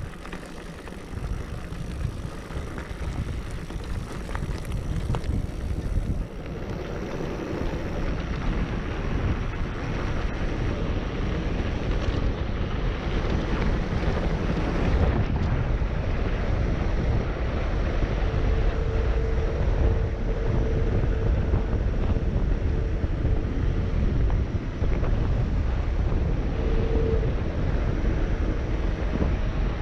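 Wind buffeting the microphone and tyre rumble from a mountain bike being ridden along a dirt trail, building over the first few seconds and then staying loud. A faint thin steady whine comes and goes in the second half.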